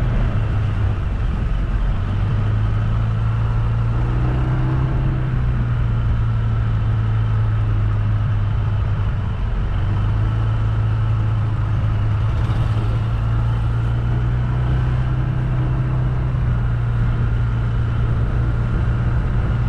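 A vehicle engine running steadily as it travels, a constant low drone that shifts slightly in pitch about a second in and again about halfway through.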